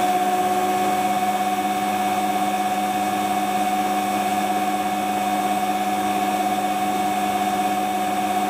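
Hotpoint Ultima WT960 washing machine running on its new drive belt, the drum spinning at a constant speed with a steady motor whine.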